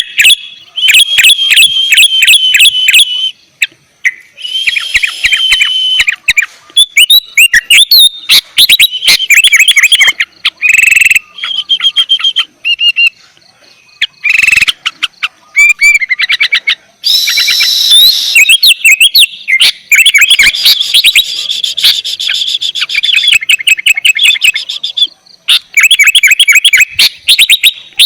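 Sooty-headed bulbul (kutilang) in full, continuous song: fast runs of sharp chirps and whistled notes, each phrase a few seconds long, with brief pauses between them.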